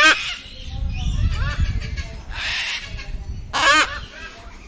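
Cockatoo calling in short squawks, with a rasping screech about halfway through and a loud call near the end.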